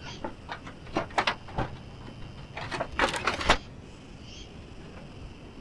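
A quick series of clattering knocks and clicks, like gear being handled and set down, in two bursts; the second, about three seconds in, is the loudest. Faint insect chirping runs underneath.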